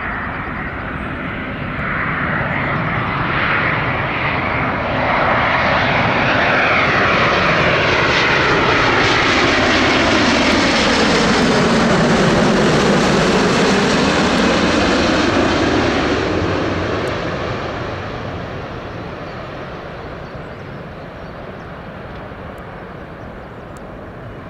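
Airbus A350-941 airliner's Rolls-Royce Trent XWB jet engines as it comes in to land, a steady roar that swells to a peak about halfway through and then fades away as the aircraft passes.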